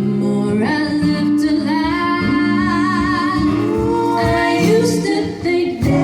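A woman singing live, holding long notes with vibrato over a guitar accompaniment.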